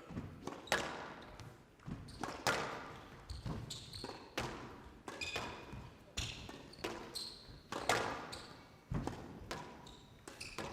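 A squash rally on a glass court: the ball strikes racket and walls in sharp knocks about every half second to a second, each with a short echo in the hall. Short high squeaks from players' court shoes come between the shots.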